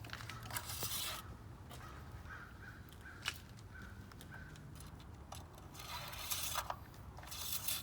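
Short rubbing and scraping handling noises in three brief bursts, with a single sharp click about three seconds in.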